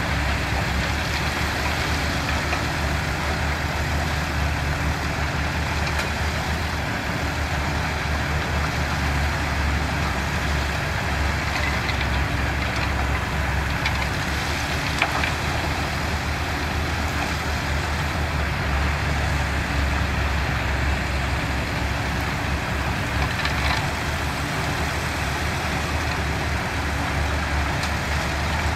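Heavy diesel engines of construction machinery running steadily, with a few faint knocks.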